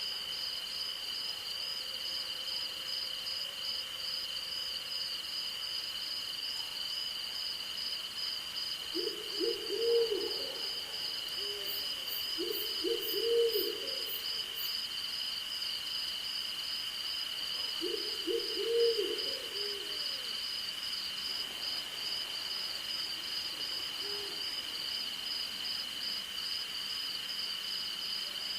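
An owl hooting in short bouts, three clear ones and a fainter one near the end, over a steady night chorus of crickets and insects: one continuous high trill and a higher, rapidly pulsing one.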